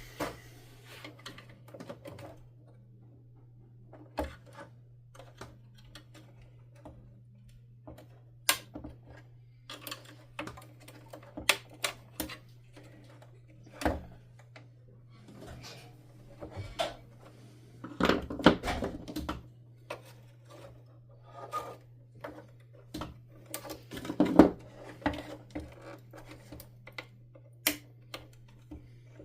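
Irregular sharp clicks and plastic clacks of a vacuum cleaner's plastic housing and parts being handled during disassembly, with snips of cutters on zip ties. The clicks are scattered through, with louder clusters of knocking about two-thirds of the way in and again near the end, all over a steady low hum.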